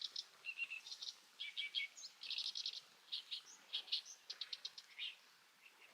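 A small bird chirping: a quick series of short, high chirps in several runs, dying away about five seconds in.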